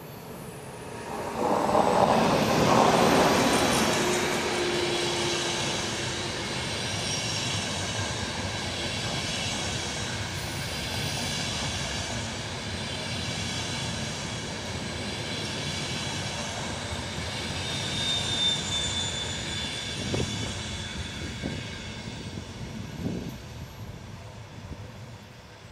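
EuroCity passenger train passing slowly on an electrified mountain line. It is loudest in the first few seconds as the head of the train goes by, then the coaches roll past with a steady rumble of wheels on rail. A thin high squeal comes about three-quarters of the way through, and a few knocks follow near the end.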